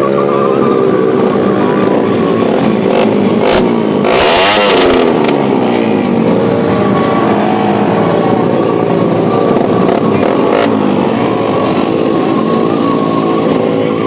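Superbike engines running at high revs. One bike passes close about four seconds in, the loudest moment, its pitch falling as it goes by.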